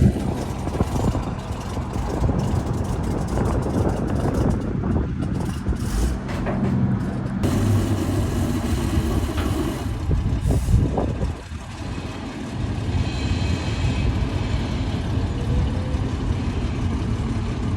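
Truck engine running steadily, with a short air hiss about ten seconds in.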